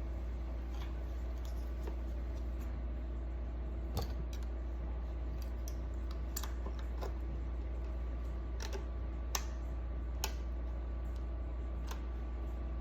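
Steady low electrical hum with a few faint steady tones over it, broken by a scattered handful of light, sharp clicks and taps.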